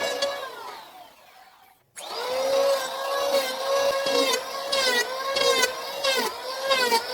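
Small electric power tool motor whining. It winds down about a third of a second in and goes quiet, then is switched on again abruptly at about two seconds. After that its pitch dips over and over as it is loaded against the work.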